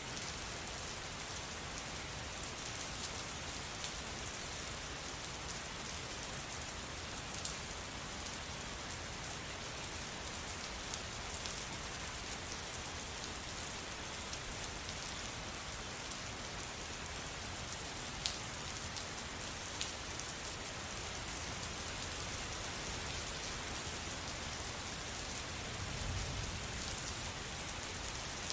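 Steady rain pattering, with a few sharper drips standing out now and then. A brief soft low rumble comes near the end.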